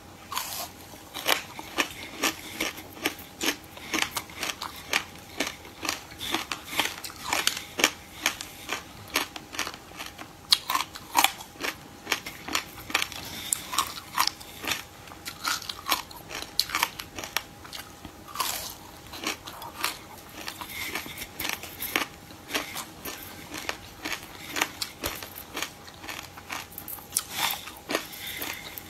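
Close-up crunching as raw buckwheat groats are bitten and chewed by the mouthful, a dense, irregular run of sharp crunches throughout. A faint steady hum sits underneath.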